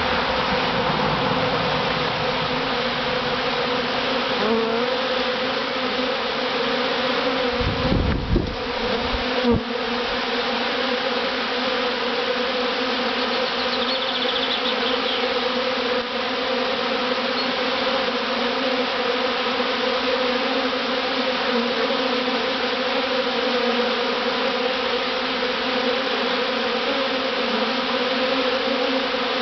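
A large swarm of honeybees buzzing around their new hive box: a dense, steady hum. Two brief low bumps come about eight and nine and a half seconds in.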